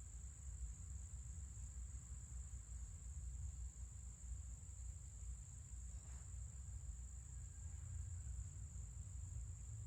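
Insects calling in a steady, unbroken high-pitched chorus over a constant low rumble.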